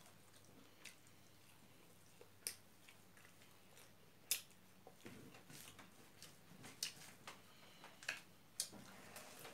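Two people eating a rice meal with their hands, chewing with faint, sharp mouth clicks and smacks. The clicks are scattered at first and come more often in the second half; the loudest is about four seconds in.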